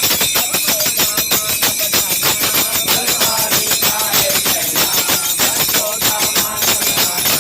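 Several voices singing together over a fast, steady beat of clapping and jingling hand cymbals.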